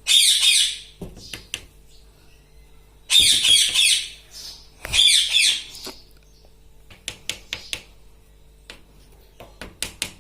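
Pet parrot screeching: three loud, harsh squawks, one at the start, one about three seconds in and one about five seconds in. They are followed by short clicks in quick groups, about seven seconds in and again near the end.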